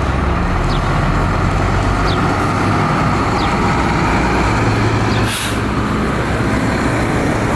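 Fire truck's diesel engine running as the truck rolls by. About five seconds in comes a short burst of air-brake hiss.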